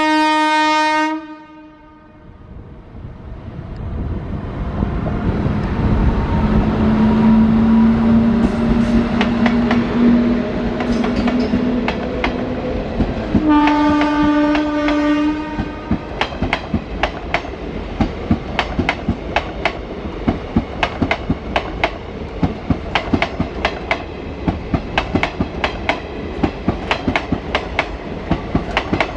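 A train horn cuts off about a second in. Then a train approaches, growing louder with a steady low tone, and sounds its horn for about two seconds. After that, its wheels clatter over the rail joints in a quick, regular rhythm as it passes.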